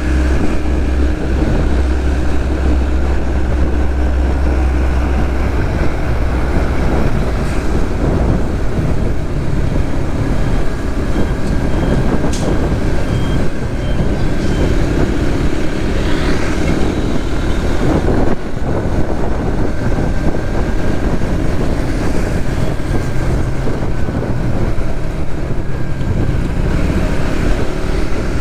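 Suzuki GSX-S150 motorcycle's single-cylinder engine running steadily at road speed, with continuous road and traffic noise around it.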